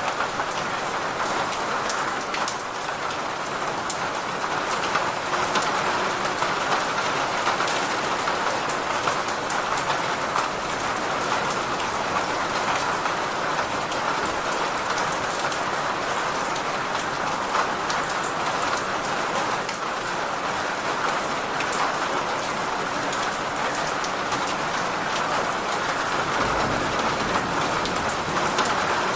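Steady rain pouring onto a surface, a dense even hiss with individual drops ticking through it. A brief low rumble rises underneath near the end.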